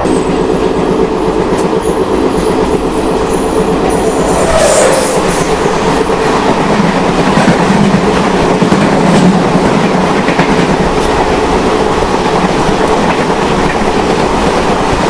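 Amritha Express passenger train running on the line: steady, loud rumble and clatter of the coach's wheels on the rails.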